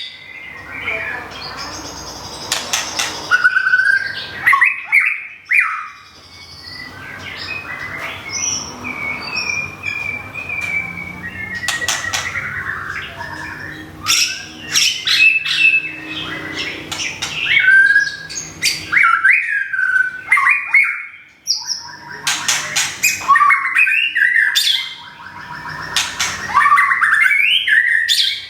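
White-rumped shama singing a long, varied song: loud whistled phrases that slide up and down, mixed with harsh squawky notes and sharp clicks, in bursts separated by short pauses.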